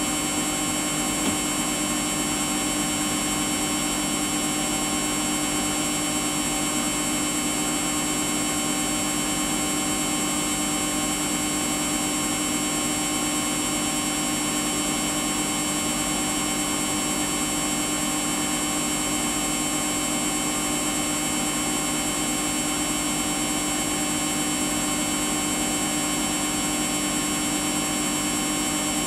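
Samsung washing machine spinning at a steady speed, its drum motor giving an even, high whine with no let-up.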